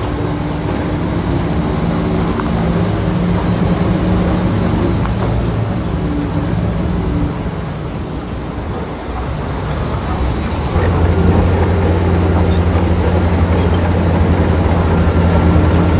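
Heavy diesel engine of earthmoving machinery running steadily. It eases off briefly about halfway through, then comes back louder and deeper about 11 seconds in, as if put under load.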